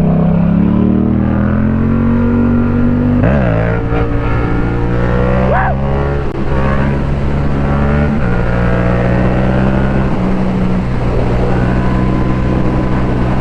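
Motorcycle engine pulling hard through the gears: its pitch climbs, breaks at shifts about three and eight seconds in with a quick rev blip between, then holds steady at cruising speed.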